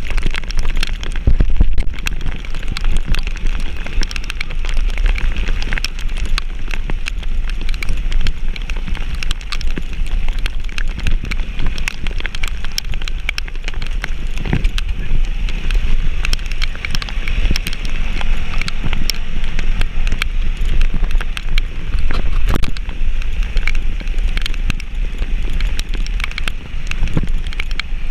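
Heavy rain drumming close to the microphone as a dense crackle of drops, over a steady low rumble of wind on the microphone.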